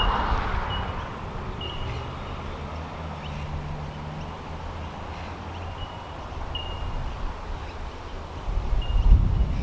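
A bird calling in short, high chirps every second or so, over a low rumble of wind on the microphone that grows stronger near the end. A faint low hum runs for a couple of seconds in the middle.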